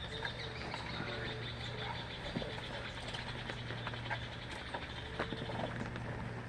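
Rain dripping and pattering, with a long rapid high trill from an animal lasting about five seconds and a few short low calls.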